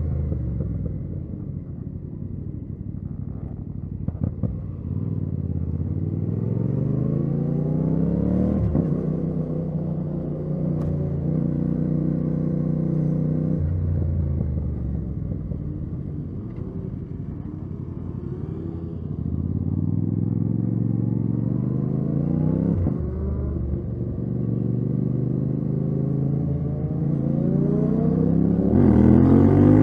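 Yamaha MT-07 parallel-twin engine through a titanium Akrapovic exhaust, heard from the rider's seat while riding. It pulls up through the revs and drops sharply at a gear change twice, then revs up hard again near the end.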